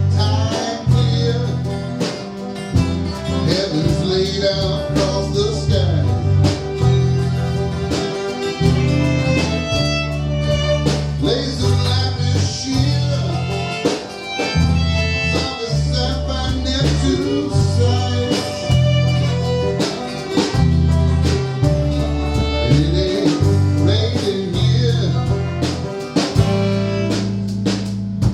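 A band playing a song live at practice, the bass notes loudest, over a steady beat.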